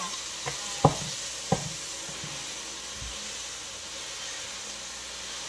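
Beef sizzling in a hot oiled wok as it is stir-fried, a steady hiss, with wooden spatulas knocking against the pan three times in the first two seconds.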